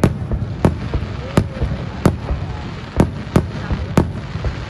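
Aerial firework shells bursting: about seven sharp bangs at uneven intervals, roughly one every half second to second, over a steady low rumble.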